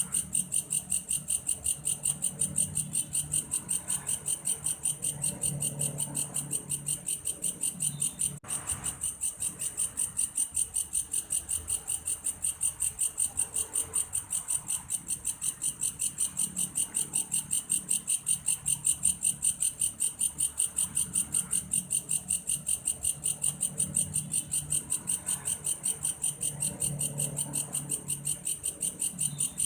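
Belalang kayu, a grasshopper, singing in a steady, even train of high chirps, about three to four a second, much like a cricket. A faint low murmur comes and goes underneath.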